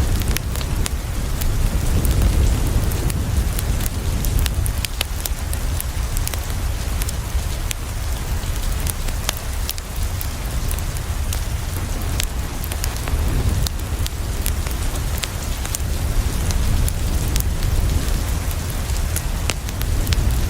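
Steady rain falling on a window, with frequent short sharp crackles and ticks from a wood fire and a low rumble underneath.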